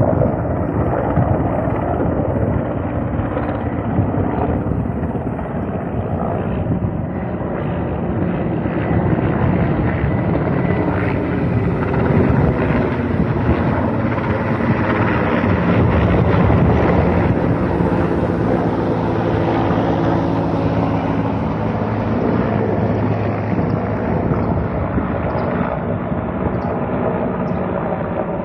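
Mi-8 helicopter flying, its main rotor and twin turboshaft engines running continuously. It grows louder toward the middle, and the pitch bends and the level eases off somewhat in the second half.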